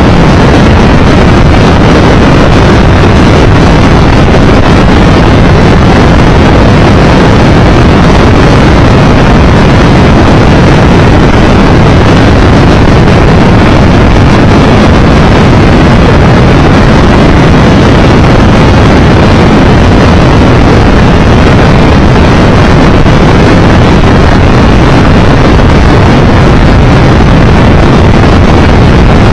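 Loud, steady wind rush over the microphone of a motorcycle riding at speed, with the drone of the Triumph Tiger Explorer 1200's engine and the road noise blended in underneath.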